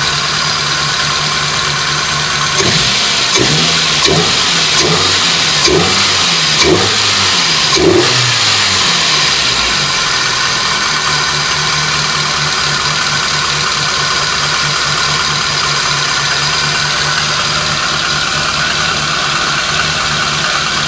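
VAZ four-cylinder engine with a Nuzhdin 10.93 tuning camshaft idling, then revved in about seven short throttle blips, each rising and falling back, before settling back to a steady idle.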